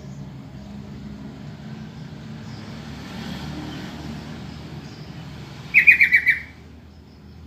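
Sooty-headed bulbul (trucukan) giving one short call of about five quick notes, about six seconds in, a call used as a lure to get other bulbuls to answer. A steady low rumble runs underneath.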